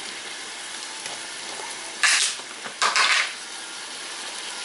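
Steady sizzle of lean ground turkey frying in a large pan on the stove. Two short, louder rushes of noise come about two and three seconds in.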